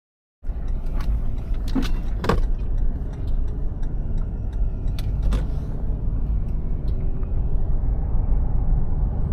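Motor vehicle on the move: a steady low road-and-engine rumble with a few sharp clicks and rattles, starting abruptly after a moment of silence.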